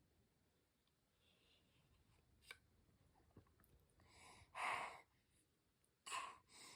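Near silence, then three short breathy mouth sounds from a child eating yogurt: the first and loudest about four and a half seconds in, two more near the end.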